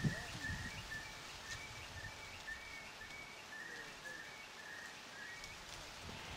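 A bird calling over and over in woodland, one short note about twice a second, each with a brief higher note on top, until near the end.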